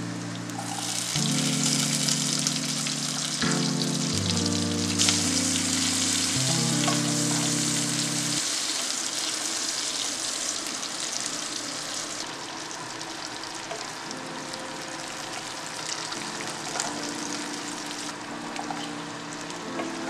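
Hot oil sizzling in a wok as chopped ginger, green chilli and onion pieces fry, stirred with a wooden spatula. The sizzle swells about a second in and eases off after about twelve seconds.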